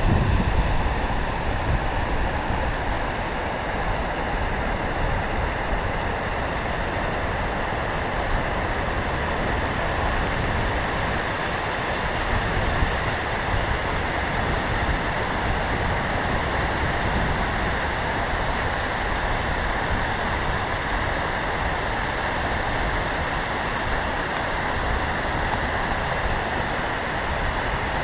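Steady rush of falling water from a river waterfall, with a low wind rumble on the microphone.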